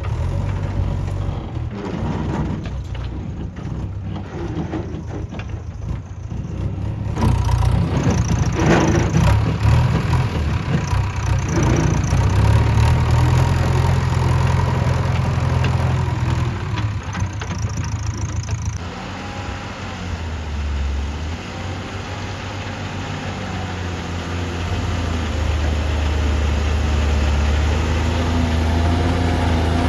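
Heavy diesel engine running under varying load: a strong low rumble that gets louder about seven seconds in, eases off around nineteen seconds, then builds again near the end.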